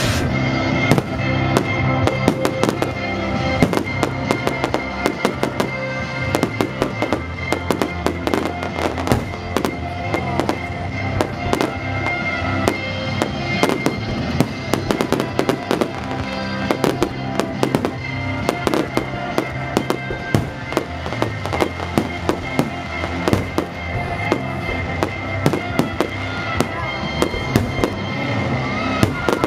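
Aerial fireworks going off in quick succession: a dense run of sharp bangs and crackling star bursts throughout, with music playing underneath.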